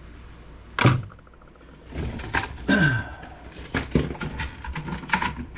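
Computer parts being handled and set down on a workbench: a hard knock about a second in, then a run of clattering knocks, clicks and a short scrape.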